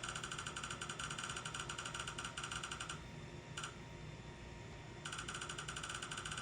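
Dental scanning device giving off rapid electronic clicks, a fast even run of pulses at a few fixed pitches. It runs for about three seconds, clicks briefly, stops, and starts again about five seconds in.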